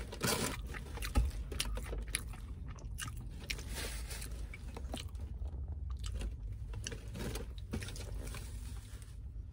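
A person chewing and biting fried mozzarella sticks close to the microphone, with many small crisp clicks and crunches scattered throughout.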